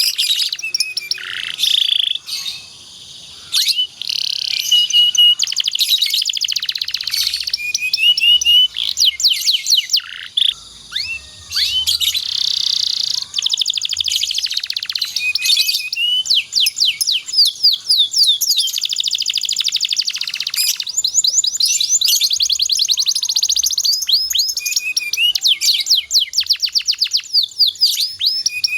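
Domestic canary singing a long, continuous song of fast rolling trills, rapid repeated chirps and sweeping whistled notes.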